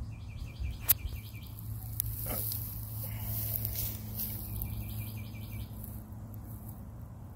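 A bird calling outdoors: a quick run of about eight high chirps, repeated twice, over a steady low hum, with one sharp click about a second in.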